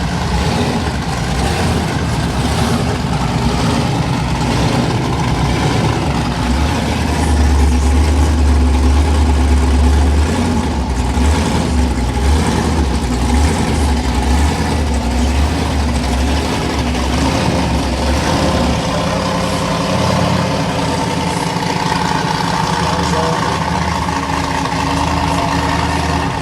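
Supercharged V8 engines of blower drag cars rumbling at idle as they roll in. The deep rumble swells loudest about a third of the way through.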